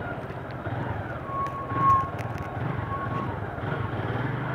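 Motorcycle engine running at low speed, its low note wavering with the throttle. A thin high tone sounds briefly twice in the middle.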